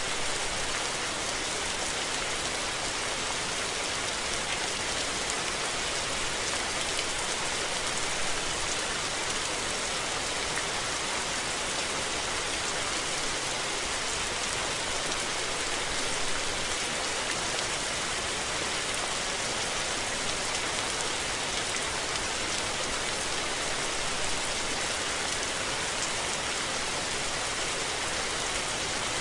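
Steady rain falling and pattering on surfaces, an even hiss without thunder.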